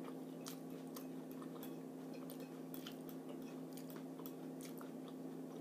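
Faint, close-up chewing with many small scattered clicks as a person eats a forkful of a ground-beef dish, over a steady low hum.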